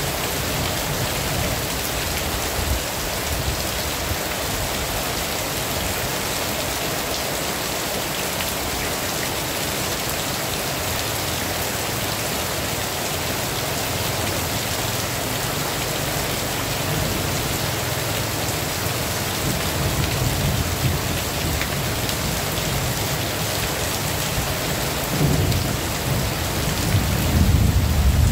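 Heavy rain falling steadily, with low rumbles of thunder that build in the second half and are strongest near the end.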